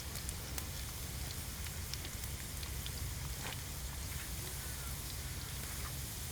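A wood cooking fire crackling, with a steady hiss, scattered sharp crackles and a low rumble underneath.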